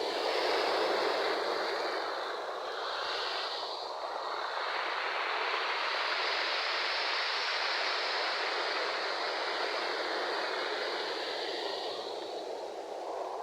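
Ocean waves washing in: a continuous rush of surf that swells and eases over several seconds.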